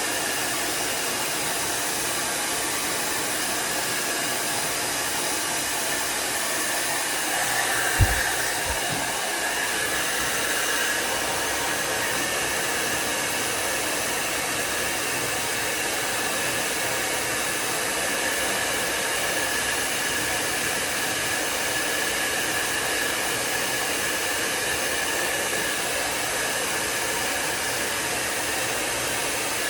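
Handheld hair dryer running steadily as a beard is blow-dried, a continuous airy rush with a faint whine. A single brief knock about eight seconds in.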